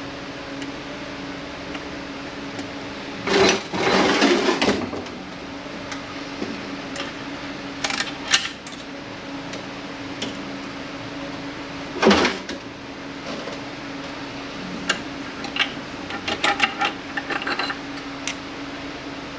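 Sharp metal clicks and clatter of hand tools working a snap ring out of an automatic transmission clutch drum, over a steady low hum. There are a few loud clanks in the first half and a quicker run of lighter clicks near the end.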